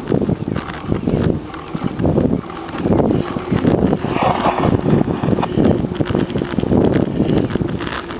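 Wind buffeting the microphone of a camera carried on a moving bicycle, a loud rough rumble that pulses unevenly.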